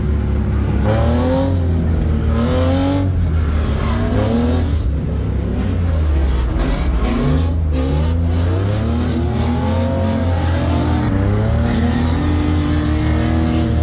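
BMW E36 drift car's engine heard from inside the cabin, revving hard and rising and falling in pitch again and again as the throttle is worked through a drift run.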